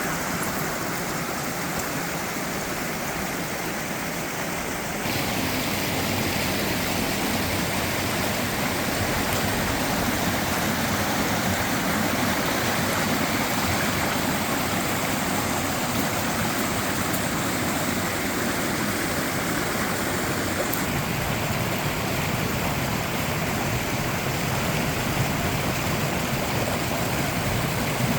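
Mountain stream water rushing and cascading steadily over small drops into plunge pools. It gets a little louder about five seconds in and changes character again about two-thirds of the way through.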